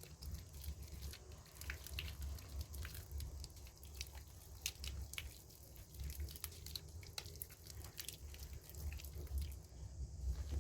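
Soaked bar soap being worked by hand: a dense run of small, irregular wet squishes and crackles, over a low steady hum.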